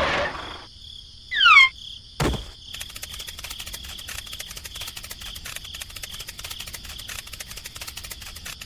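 A small motor running cuts off right at the start. About a second in there is a short, loud call of falling whistles, then a single knock. After that, steady insect chirring like crickets takes over, a high buzz with fast, even ticks.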